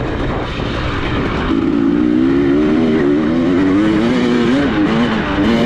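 Dirt bike engine running under changing throttle as it is ridden. From about a second and a half in, its note rises and falls.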